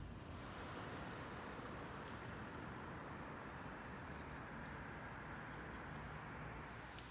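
Outdoor park ambience: a steady hiss of background noise with a brief run of faint high bird chirps about two seconds in.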